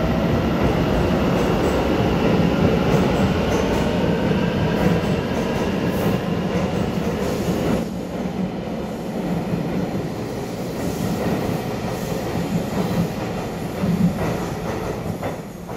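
Taiwan Railway EMU900 electric commuter train running into the platform, with steady wheel-on-rail rumble, some wheel squeal and clickety-clack. It quietens near the end as the train comes to a stop.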